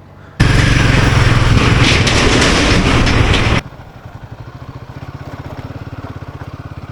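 A loud rush of riding noise, wind and engine together, starts suddenly about half a second in and cuts off abruptly a few seconds later. After it comes a motorcycle engine running steadily with an even, low throb.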